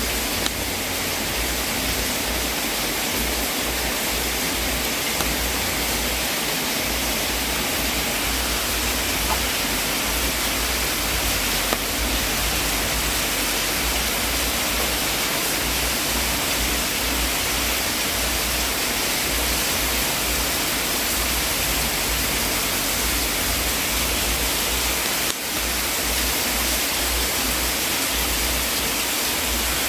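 Fire burning in a fireplace: a steady hissing rush with a few faint pops.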